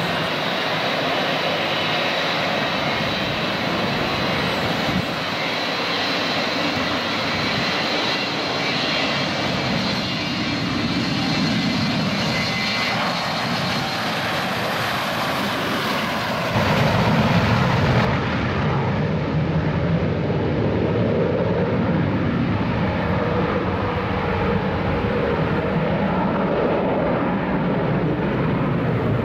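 Jet engines of a Boeing airliner, a steady rush with a high whine over it; more than halfway through, a louder low rumble comes in and the sound changes abruptly to a different engine noise.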